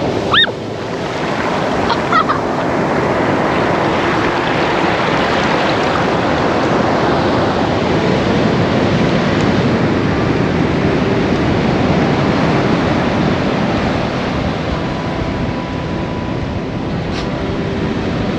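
Ocean surf rushing steadily, swelling and easing. Two brief high rising squeaks come in the first couple of seconds.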